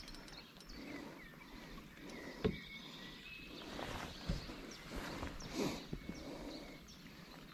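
Light rain falling on the river around an aluminium rowboat, as a faint steady patter, with a few knocks from the boat and some brief high chirps.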